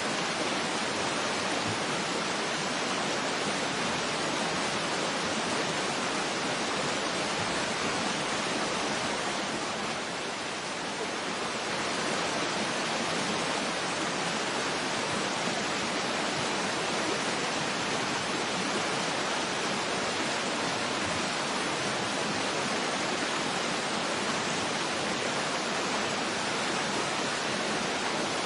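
Waterfall rushing in a steady, even hiss of falling water, easing slightly for a moment about ten seconds in.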